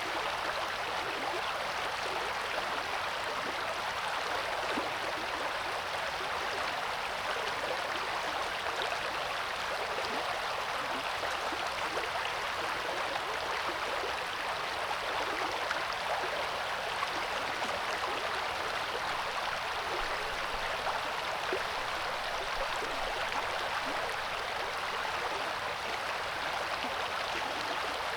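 Coeur d'Alene River flowing over rocks: a steady, even rush of water.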